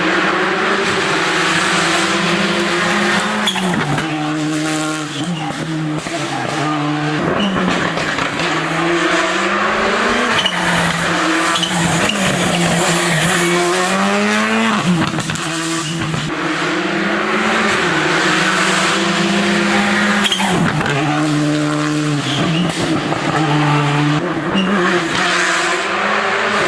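Rally car engine revving hard on a special stage, its pitch climbing through each gear and dropping sharply at each change or lift, repeatedly.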